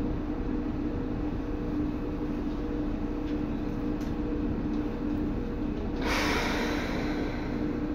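Seibu 2000 series electric commuter train running, heard from inside the car: a steady low rumble from the wheels and track with a steady hum over it. About six seconds in, a loud hiss rises and holds until near the end.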